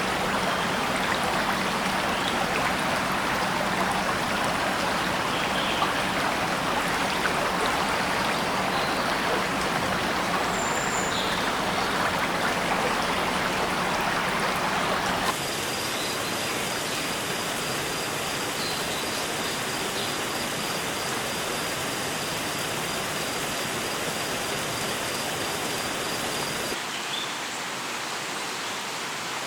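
Steady rushing water noise in a rainforest soundscape. It changes abruptly about halfway through and again near the end, where the recording cuts, becoming a little quieter each time. A few faint chirps sound in the first half, and a steady high, thin tone runs through the middle part.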